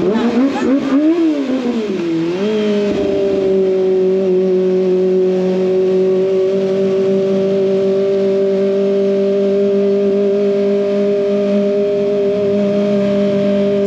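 Kawasaki ZX25R inline-four engine through an SC Project exhaust. The pitch rises and falls over the first two seconds or so, then it holds a steady drone at one engine speed.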